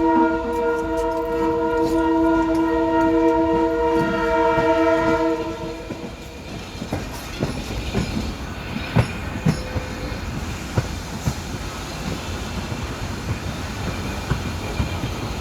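Train horn sounding one long steady blast that stops about six seconds in, followed by irregular clicks and knocks of train wheels running over the rails.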